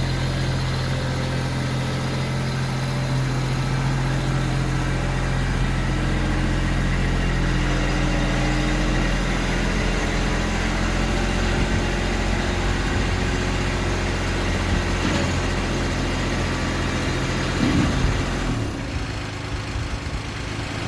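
Compact tractor's diesel engine running steadily at low speed as the tractor is driven in. There is a brief louder moment about 18 seconds in, and the sound begins to die away near the end.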